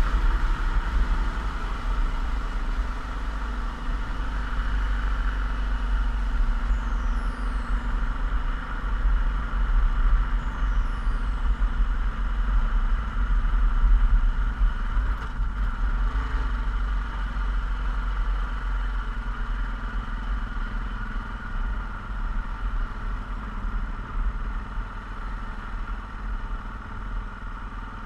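Yamaha XT660Z Ténéré motorcycle's 660 cc single-cylinder engine running steadily, with a heavy low rumble underneath.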